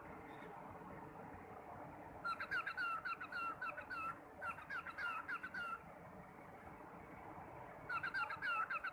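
Pet parrot calling in quick runs of short, sharp chirping notes: a burst of about three and a half seconds, then a shorter burst near the end, over steady background noise.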